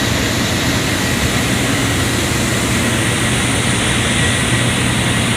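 Industrial air compressor plant running steadily: a constant machine drone with a low hum and a faint steady high whine.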